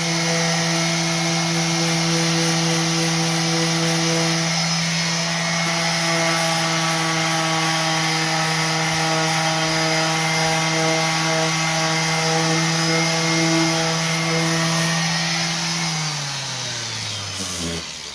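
Electric orbital sander running steadily against painted wood for light distressing of the edges, then switched off about 16 seconds in, its motor hum falling in pitch as it spins down.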